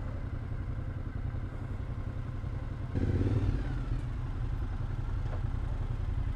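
Motorcycle engine idling with a rapid, even low rumble. About three seconds in the engine note rises and grows louder, as if given some throttle.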